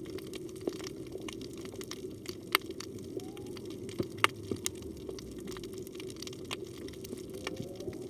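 Underwater reef ambience: a steady rush of water noise with scattered sharp clicks and cracks. About three seconds in comes a faint short rising call, part of the whale song that the recordist takes to be a humpback whale's.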